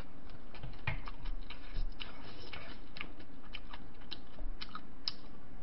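A person chewing a mouthful of bibimbap close to the microphone: irregular small wet clicks and smacks.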